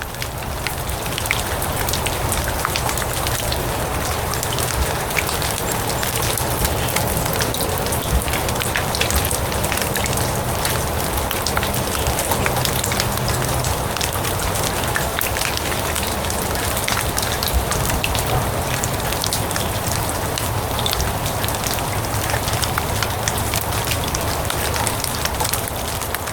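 Steady rain falling on grass and leaves, a dense hiss with many separate drop hits. It fades in over the first second or two and fades out near the end.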